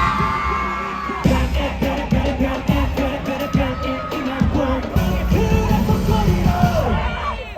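Loud concert music from the festival sound system, with a crowd singing and yelling along.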